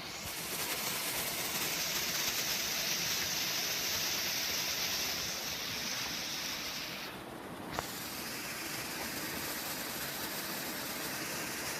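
Steady rushing of flowing river water. The upper hiss drops out abruptly about seven seconds in and comes back with a single sharp click.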